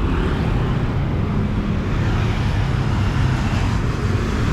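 Heavy road traffic: cars and motorbikes running and passing close by, a steady rumble of engines and tyres.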